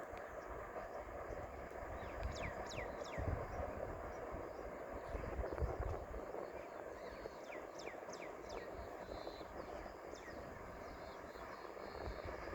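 A bird calling in quick descending whistles, three in a row about two seconds in, three more near the middle, then a single one later. Under it is a steady outdoor background hum with low rumbling gusts.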